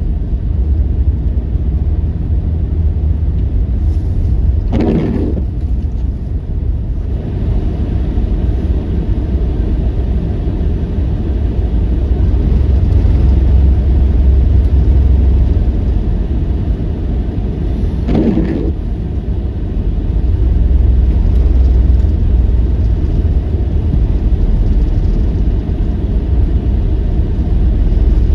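Strong blizzard wind rumbling on the microphone, swelling and easing in gusts, with two brief, higher sounds about 5 and 18 seconds in.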